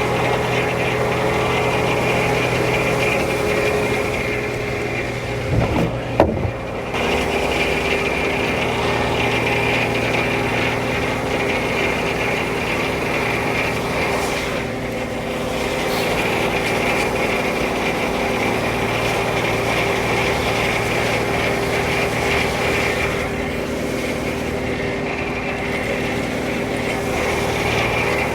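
Frick No. 1 sawmill running steadily, its power unit and turning blade making a constant machine hum, with a short clatter of knocks about six seconds in.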